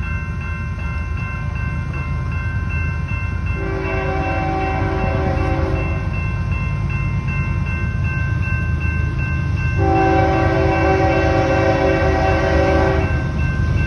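Diesel locomotive leading a freight train, its engine running with a steady low rumble, sounds its horn in two long blasts: one about four seconds in and a longer one about ten seconds in.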